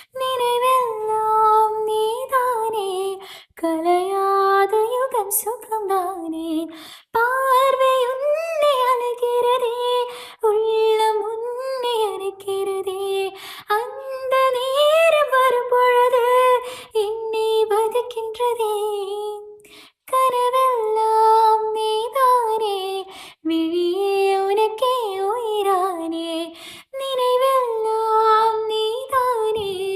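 A woman singing a slow, melodic Tamil film song solo, with no clear accompaniment. She sings in phrases of about three seconds with short breaths between them.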